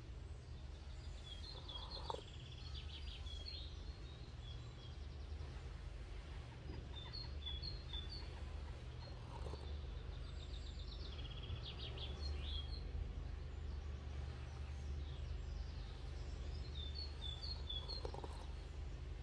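Small songbirds chirping and trilling, short high notes in clusters every few seconds, with a couple of rapid trills. Under them runs a steady low hum.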